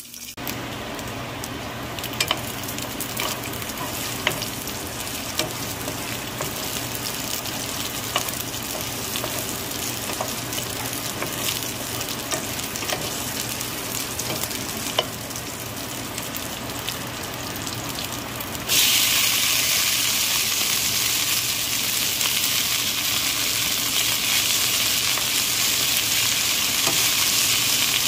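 Chinese sausage, garlic and sliced serrano peppers sizzling in hot oil in a pan, with a wooden spatula scraping and clicking against it now and then. About two-thirds of the way through, the sizzle suddenly gets louder and hissier as the washed, soaked purslane goes into the hot oil.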